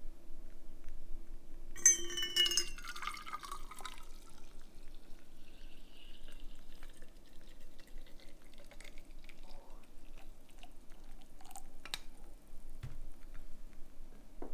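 Tea being made: liquid poured into a cup about two seconds in for roughly two seconds, followed by scattered light clinks and taps of cup and kettle.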